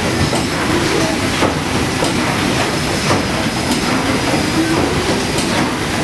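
Steamboat's steam engine running, a steady mechanical rumble with repeated knocks and clanks of its moving parts.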